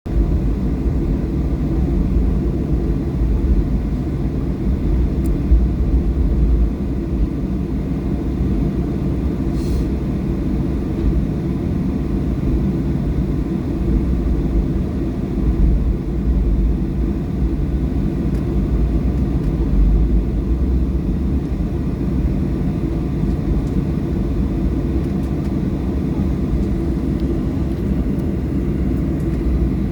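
Inside the cabin of a Boeing 737-800, a steady low rumble from its CFM56-7B engines and the airframe, with the engines at low thrust and no spool-up. There is a faint tick about ten seconds in.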